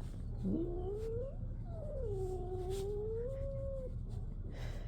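Domestic cat giving a drawn-out warning yowl: a short rising call, then a longer one that dips and holds before breaking off about four seconds in. It is the sound of a cat annoyed at being pestered by a kitten, just before it slaps him.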